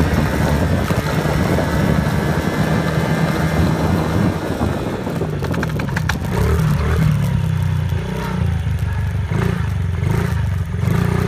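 Dirt bike engine running steadily, with a short rattle of clicks about five to six seconds in.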